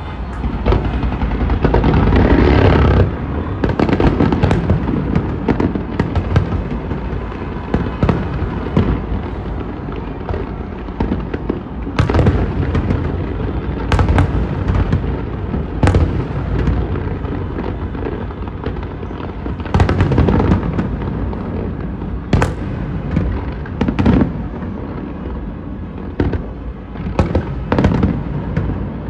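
Aerial fireworks display: a continuous run of bangs and crackling over a low rumble. Sharper, louder reports stand out every two seconds or so through the middle.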